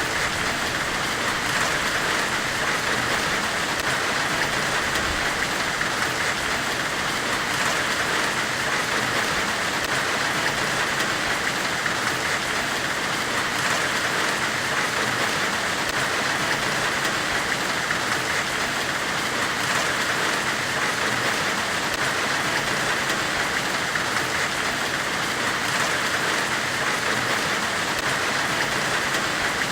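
Steady forge-weld hiss used as white noise: an even, unbroken hiss, brightest in the upper middle, with no hammer blows or other events.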